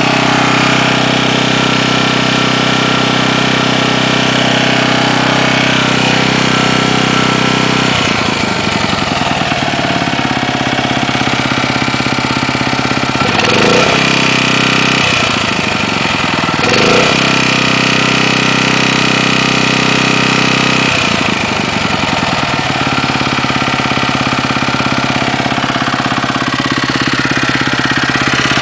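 Mitsubishi G510L small engine running with a rapid tapping knock ("ka-ka-ka"), its speed changing about eight seconds in and revved up briefly twice in the middle. The knock comes from scored crankshaft bearings, damaged by old oil caked inside the crankcase after oil changes were neglected.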